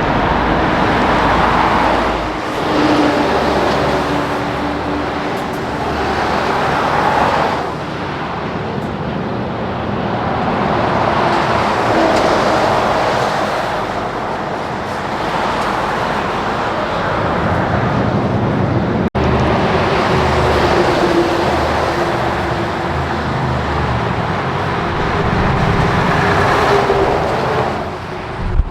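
Heavy trucks passing one after another on a highway. Engine and tyre noise swells and fades as each goes by, with a steady engine tone in some passes. There is a brief dropout about two-thirds of the way through.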